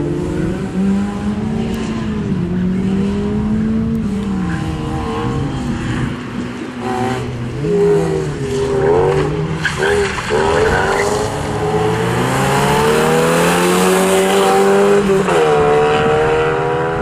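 Opel Astra GSI rally car's engine driven hard, revs rising and falling through braking and gear changes. Near the end a long climb in revs breaks off with an upshift and builds again.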